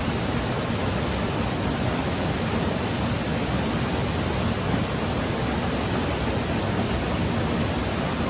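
Stream water rushing, a loud steady hiss with no breaks.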